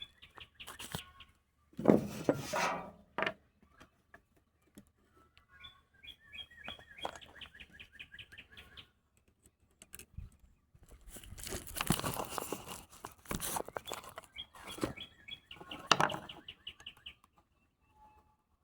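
A small bird singing two rapid trills of evenly repeated high notes, each about two to three seconds long, one near the middle and one near the end. Scattered handling knocks and rustling come before each trill.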